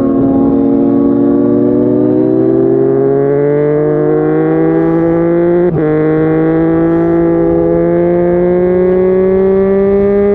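Yamaha MT-09 inline-three engine through a Yoshimura R55 slip-on exhaust, accelerating steadily with the pitch slowly climbing. About halfway through the pitch drops sharply at an upshift, then climbs again in the next gear.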